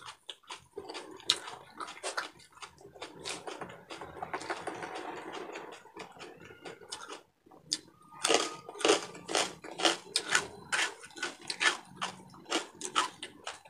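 Close-miked crunching and chewing of crispy deep-fried pork belly (pork bagnet), a fast, irregular run of crackling bites with wet mouth sounds.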